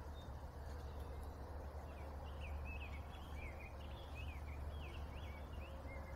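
A bird twittering in a quick run of high chirps from about two seconds in, over a steady low rumble of background noise.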